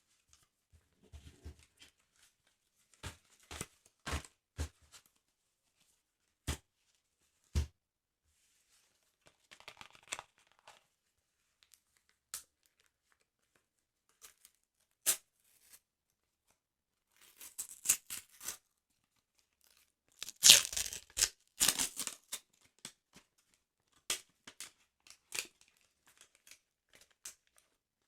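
Paper pages of a sticker album being handled and torn: scattered sharp taps and clicks, then several rasping tearing bursts, the loudest about two-thirds of the way through.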